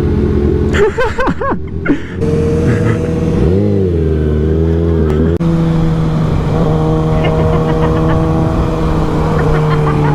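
Motorcycle engine running on the road, its revs rising and falling in the first half, an abrupt change in engine pitch about five seconds in, then holding nearly steady at cruising speed.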